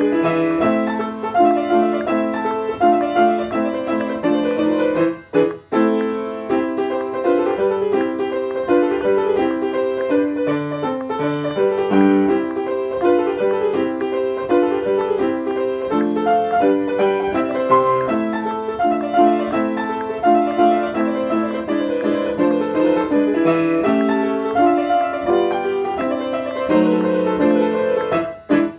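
Piano music playing a steady, busy run of notes, with a brief break about five seconds in and another near the end.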